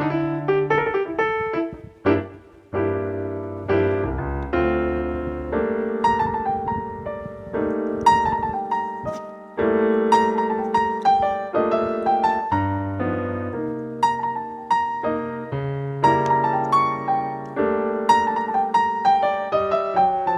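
Background piano music: a slow piece of sustained chords over a bass line, each note struck and fading.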